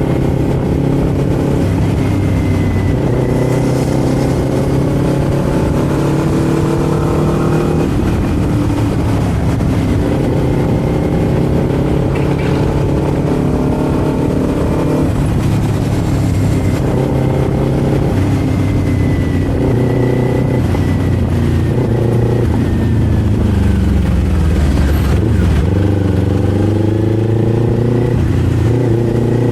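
Kawasaki Z400's parallel-twin engine and exhaust under way, revs climbing and dropping back at each gear change several times. Past the middle the revs fall away for a few seconds as the bike slows, then pick up again near the end.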